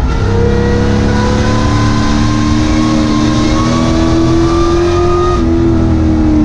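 Sport truck's racing engine heard from inside the cab under power, its revs climbing slowly, then dropping suddenly about five seconds in and easing lower near the end, over steady wind and road noise.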